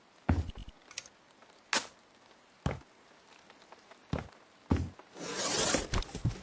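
A series of separate knocks and clunks, one every second or so, then a rough rasping noise lasting just under a second near the end, followed by two more knocks.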